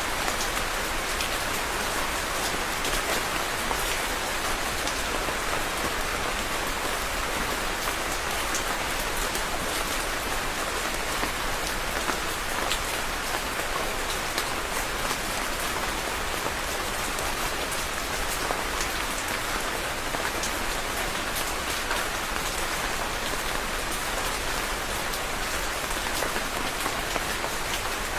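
Steady rainfall with many individual drops ticking on a surface, an even hiss without breaks or thunder.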